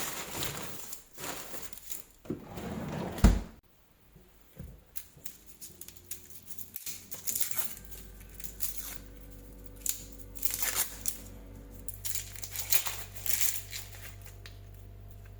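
Dry, papery onion skin being peeled off by hand, crinkling and tearing in short irregular rustles, with a sharp knock about three seconds in.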